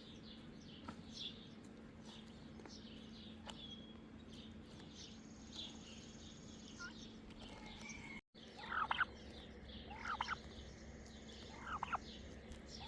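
Faint high-pitched bird chirping. After a break about eight seconds in come three louder, falling turkey calls, a couple of seconds apart.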